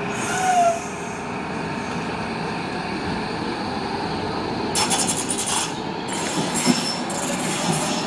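Docklands Light Railway train running on the track with a steady rumble. From about five seconds in, high hissing noise cuts in and out several times.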